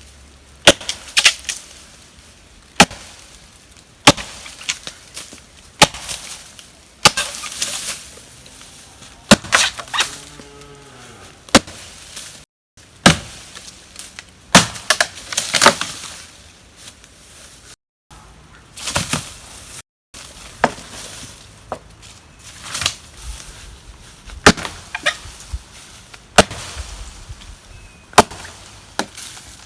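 Wood being chopped with a blade: a series of sharp, single blows about one every one to two seconds, with short breaks between groups of strikes.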